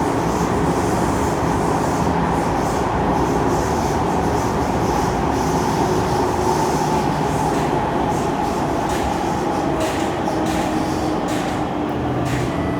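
Running noise inside a Kawasaki C151 metro train in a tunnel: a steady, loud rumble of wheels and traction equipment. Near the end, faint tones begin to fall in pitch as the train starts to slow.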